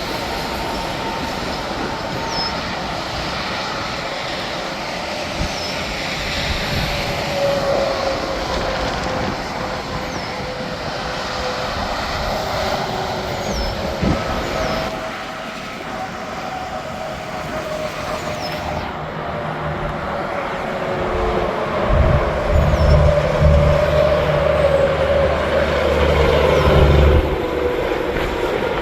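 Interstate highway traffic: trucks and cars streaming past, their tyre hum rising and falling as each goes by, with a louder pass near the end.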